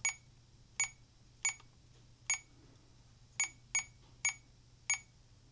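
RC transmitter giving short, identical high beeps, eight of them at uneven intervals, one per button press or scroll step while menu settings for a 4-in-1 module are being chosen. A faint steady hum sits underneath.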